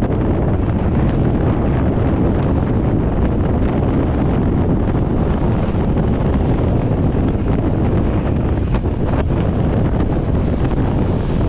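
Strong wind buffeting the microphone: a loud, steady rumble with no letup.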